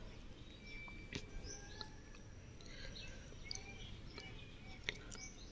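Faint, scattered bird chirps of short rising and falling notes over low background hiss, with a couple of light clicks.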